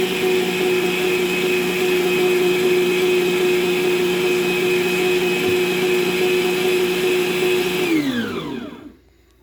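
Electric kitchen appliance motor running steadily at speed with a high whine, then switched off about eight seconds in, its pitch falling as it spins down to a stop.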